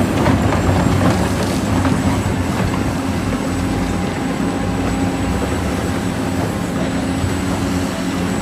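A small motor running steadily with a hiss over it and a low, even hum, starting suddenly and holding level throughout.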